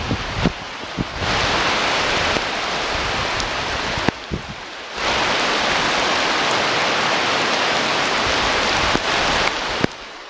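Weather noise on an outdoor nest camera's microphone: a loud steady hiss that dips briefly about four seconds in and drops away near the end, with scattered low thumps.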